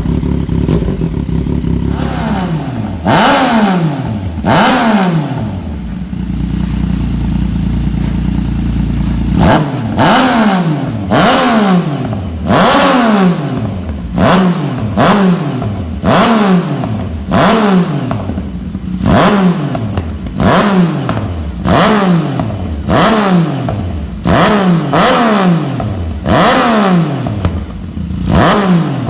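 Yamaha MT-09's inline-three engine running through a custom exhaust on stock headers: idling, blipped twice a few seconds in, then revved in a long run of quick throttle blips about once a second, each one jumping up and falling back toward idle.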